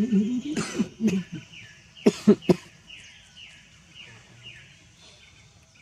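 A bird repeats short falling chirps about twice a second. Low voices sound briefly near the start, and three sharp clicks come about two seconds in.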